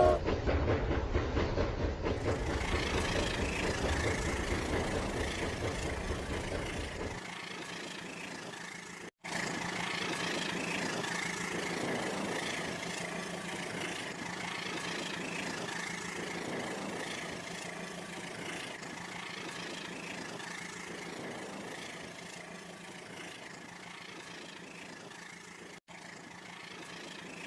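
An engine running steadily. A deep rumble drops away about seven seconds in, leaving a lighter, even running noise, broken twice by a sudden brief dropout.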